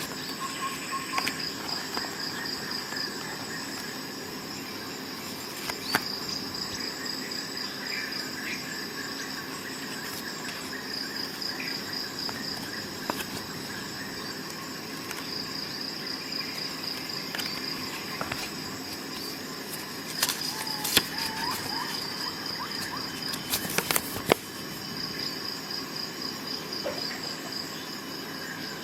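Crickets chirping in high, pulsing trills that come in repeated runs, with a few sharp clicks and knocks about six seconds in, twice around twenty seconds in and near the end.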